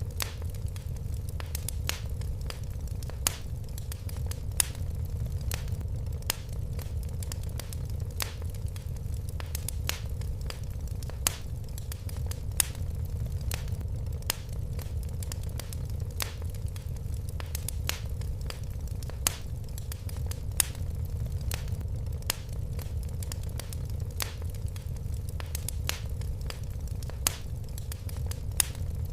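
Fireplace fire crackling: irregular sharp snaps and pops, a few louder than the rest, over a steady low rumble.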